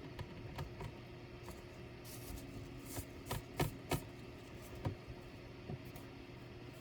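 Irregular clicks and taps on an ASUS K3605Z laptop's plastic casing or keys, with a few louder knocks around the middle, over a faint steady hum.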